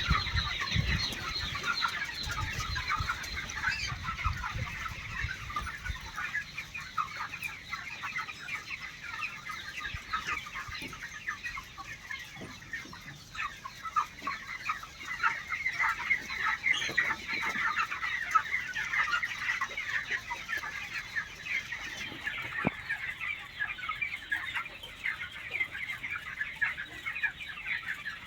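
A large flock of chickens clucking and calling continuously, many voices overlapping into a steady chatter. A low rumble runs under it for the first few seconds.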